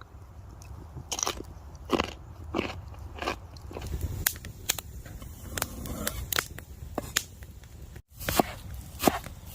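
Knife chopping crisp food on a cutting board: a string of sharp, irregular crunching strikes, breaking off for an instant about eight seconds in.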